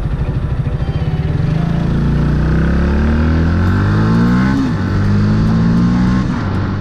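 Single-cylinder four-stroke engine of a 2018 Yamaha YZF-R125 motorcycle pulling away from low revs, its pitch climbing steadily in gear, dropping sharply at an upshift about four and a half seconds in, then climbing again before another drop near the end.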